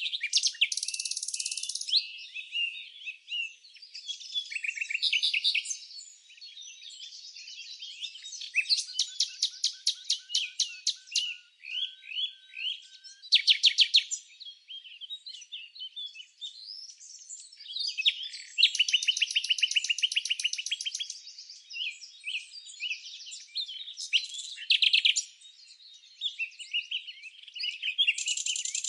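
Several birds chirping and singing at once, with fast trills of rapidly repeated notes coming in every few seconds over a steady stream of shorter chirps.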